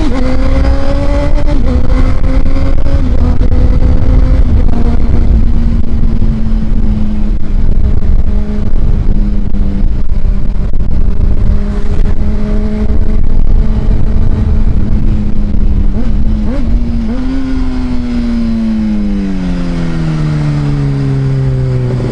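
2005 Honda CBR600RR's inline-four engine running steadily at speed, with heavy wind noise on the microphone; about seventeen seconds in, the engine note falls as the bike slows, then settles lower.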